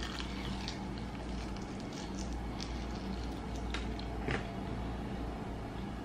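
Quiet chewing of a fried chicken wing, with a few soft wet mouth clicks and smacks over a faint steady hum.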